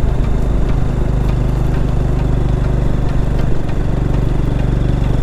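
Single-cylinder engine of a 112 cc TVS Victor motorcycle running steadily, heard from the bike with a hiss of wind and road noise.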